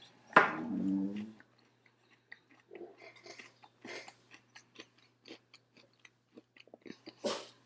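A person chewing food close to the microphone, with many small wet mouth clicks and ticks. A brief voiced sound comes about half a second in, and a short noisy breath-like burst near the end.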